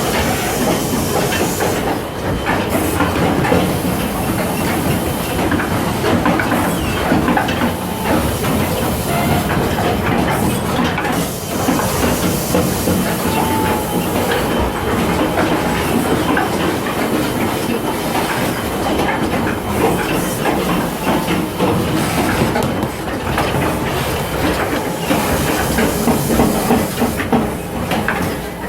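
Automatic duck down filling machine running: a steady hiss of moving air with continuous irregular mechanical clatter.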